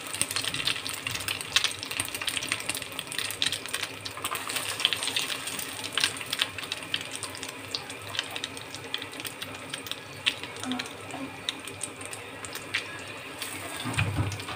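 Egg-coated chicken kebabs shallow-frying in hot oil in a nonstick pan: steady sizzling full of sharp crackles and pops, thinning out somewhat in the second half. Near the end, a soft low thud as another kebab is laid into the pan.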